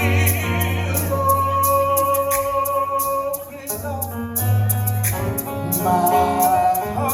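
Live gospel music: voices singing long held notes over a band with a sustained bass line and a steady cymbal beat.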